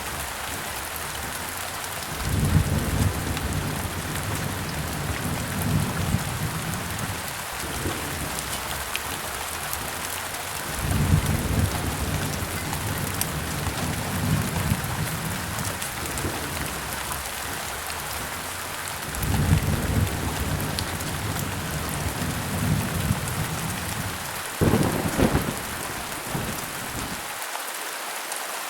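Steady heavy rain falling, with thunder rolling three times, each roll lasting several seconds, and a sharper thunderclap near the end.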